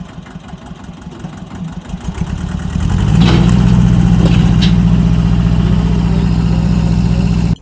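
Tractor engine running under load while towing a dead diesel truck. Quieter for the first few seconds, it picks up about three seconds in and then holds a steady note, with a few light clicks.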